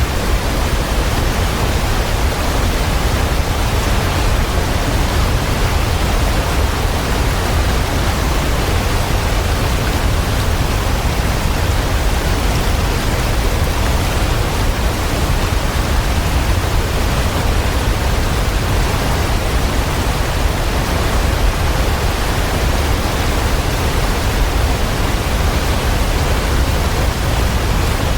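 Waterfall: a steady, unbroken rush of falling water, heaviest in the deep low end, with no changes.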